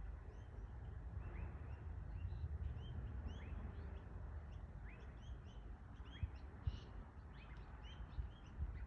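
Small birds chirping repeatedly, many short rising chirps, over a steady low background rumble, with a couple of faint knocks about six seconds in.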